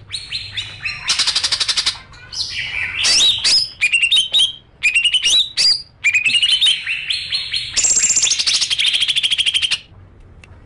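Songbird singing a varied song: fast, even trills of rapid notes alternating with series of sharp rising chirps, stopping near the end.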